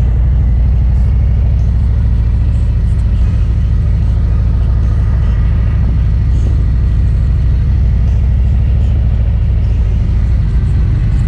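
Motorcycle engine running steadily on the road: a loud, even low rumble with no marked revving.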